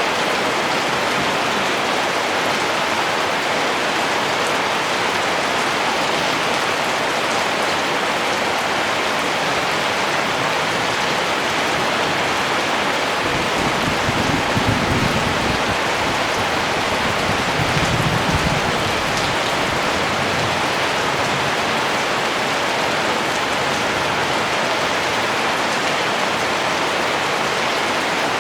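Steady, dense rainfall, an even rushing patter, with two brief low rumbles near the middle.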